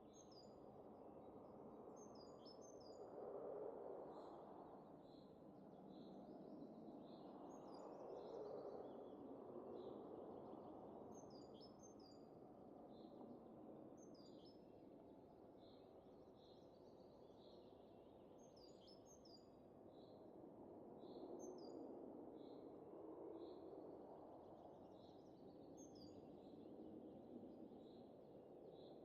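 Faint winter wind rising and easing in slow gusts every few seconds, with small birds chirping high over it again and again.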